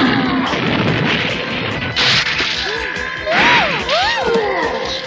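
Cartoon crash and whack sound effects over lively background music, with loud crashes about two seconds in and again past the middle.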